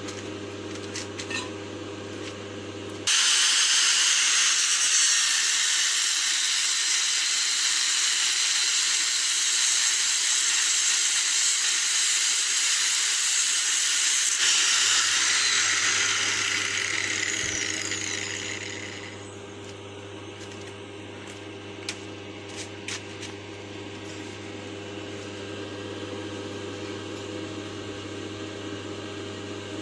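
A loud, steady hiss starts abruptly about three seconds in, holds for about twelve seconds, then fades away over the next few seconds.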